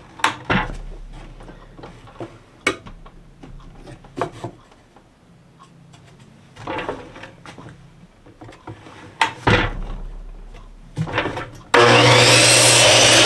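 Scattered knocks and clicks of wood boards being handled and set up at a saw. Near the end a power saw suddenly starts running loudly.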